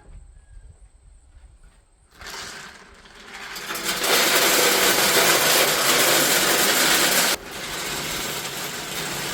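Wood smoker pellets poured from the bag into a pellet smoker's hopper: a rushing rattle that starts about two seconds in, builds to a heavy steady pour, then drops suddenly near the end to a lighter stream.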